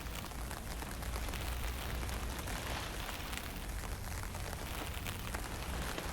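Wind blowing across the microphone with a low rumble, over a steady hiss of fine drizzle with scattered light ticks of drops.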